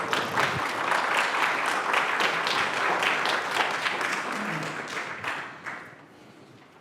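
Congregation applauding, a dense patter of many hands that dies away about five to six seconds in.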